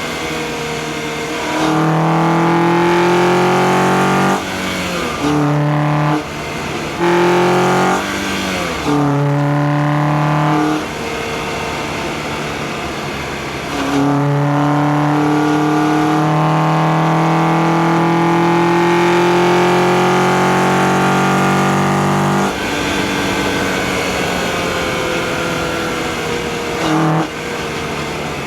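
2004 Acura TSX's K24A2 four-cylinder engine, heard through an engine-bay microphone, pulling under throttle with its pitch rising. There are several short pulls with breaks between them, then one long pull of about eight seconds. It then lifts off to a quieter drone that falls in pitch, with a short throttle blip near the end.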